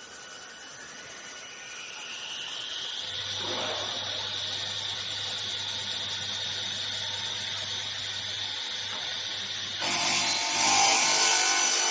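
CNC router spindle with a saw blade spinning up, its whine rising in pitch over the first few seconds and then holding steady. About ten seconds in, the blade starts cutting into wood and a louder, rougher sawing noise joins the whine.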